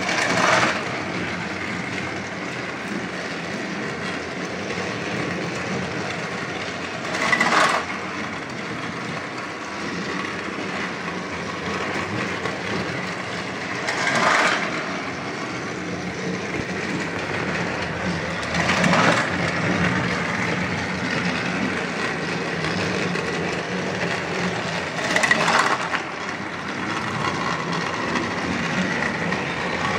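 Battery-powered toy trains running on plastic track: a steady motor whir and rattle that swells briefly about every six seconds.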